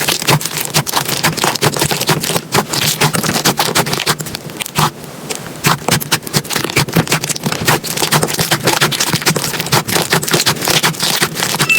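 Slime being handled, a dense run of sharp crackling and popping clicks.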